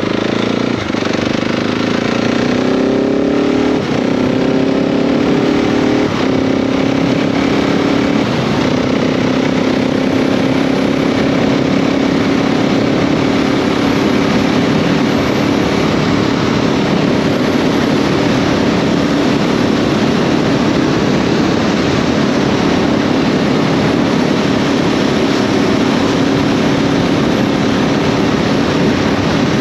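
KTM 690 SMC R's single-cylinder engine accelerating through the gears: its pitch climbs and drops at each upshift, four times in the first eight seconds or so, then it holds a steady cruise under a rush of wind noise.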